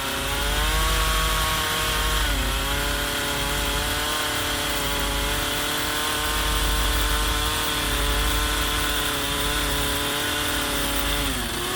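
Chainsaw carving into a wooden log, its engine running at high speed. The pitch dips briefly about two and a half seconds in and again near the end, then climbs back.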